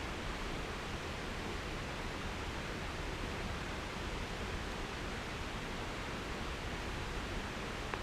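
Steady, even noise hiss with no distinct events.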